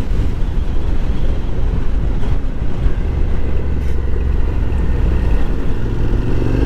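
Honda NC750X motorcycle's parallel-twin engine running steadily while riding, with a low, even rumble of engine and wind noise.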